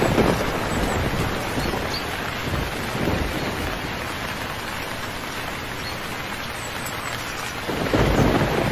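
Steady heavy rain with rolling thunder: low rumbles swell at the start, about three seconds in, and loudest near the end.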